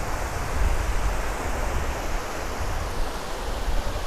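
Surf washing on the beach as a steady hiss, with wind rumbling unevenly on the microphone.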